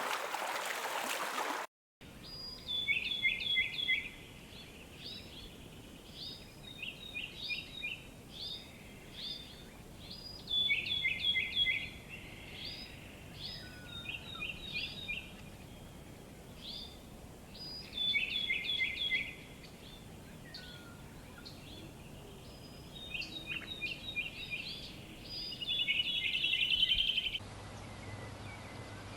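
A songbird singing: short phrases of quick notes stepping down in pitch, repeated about every eight seconds, with softer chirps between them. A rushing noise like running water fills the first second and a half before an abrupt cut.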